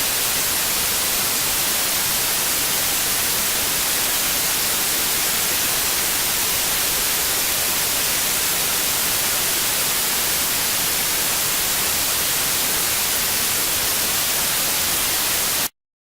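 Loud, steady hiss of static like white noise, with nothing else standing out of it. It cuts off suddenly to silence just before the end.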